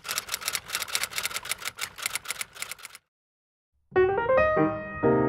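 Typewriter keys clacking in a quick, even run of strikes that stops abruptly about three seconds in. After a short silence, piano music begins near the end.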